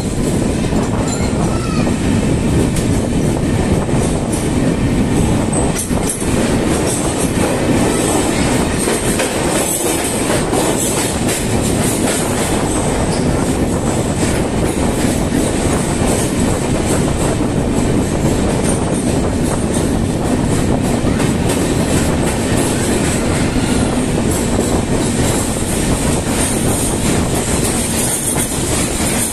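Passenger train running through a rail tunnel, heard close up at an open coach door: a loud, steady rumble of wheels on the track, echoing off the tunnel walls, with wheels clattering over the rails.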